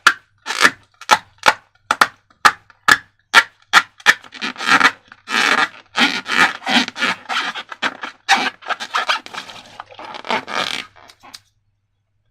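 Slime being worked by hand: a run of short sharp squishing strokes about twice a second, then longer wet rubbing squishes, stopping abruptly about eleven seconds in.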